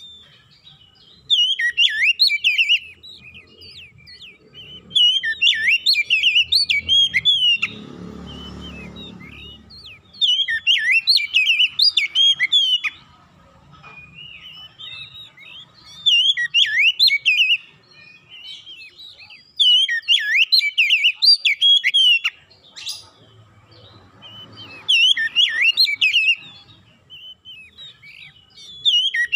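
Oriental magpie-robin (kacer) singing: loud phrases of rich, fast-changing whistles, each a couple of seconds long, repeated about seven times with short pauses between them. A brief low rumble sounds about eight seconds in.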